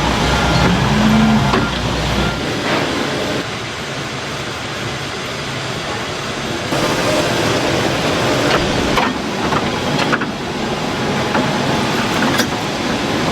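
Factory production machinery running with a loud, steady mechanical noise and a few sharp clacks, the sound shifting abruptly several times.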